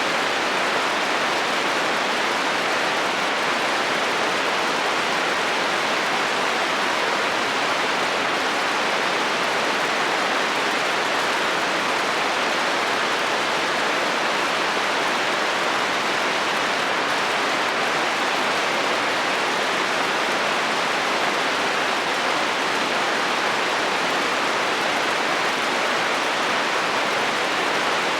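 Heavy rain falling steadily on a metal roof, an even hiss with no thunder.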